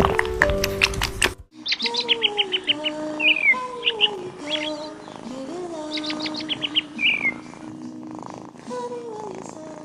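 Bird chirping in quick runs of short high chirps, twice, with lower wavering calls underneath; music cuts off about a second in.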